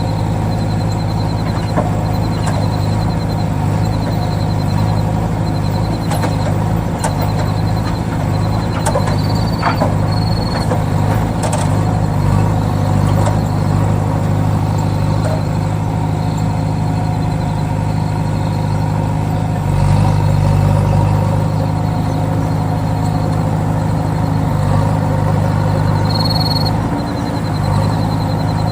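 Engine running steadily at one speed with a low hum, getting slightly louder about twenty seconds in.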